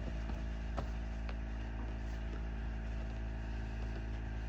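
Steady low background hum with several steady tones, and a few faint light taps in the first second or so.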